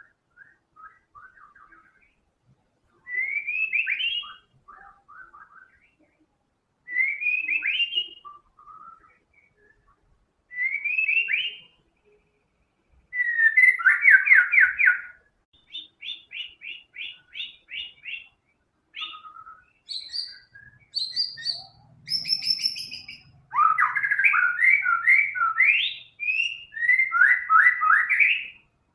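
White-rumped shama singing a long, varied song of whistled phrases with short pauses between them, mixing in learned phrases from other birds. There are several rising whistled phrases, quick runs of repeated notes, and a loud, rapid run of phrases near the end.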